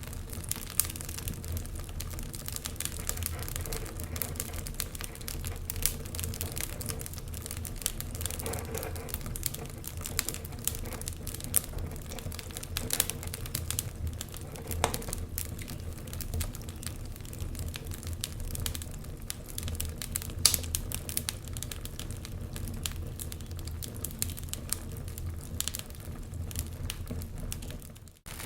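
Wood fire crackling, with frequent irregular sharp pops and snaps over a steady low rumble. The sound briefly drops out just before the end.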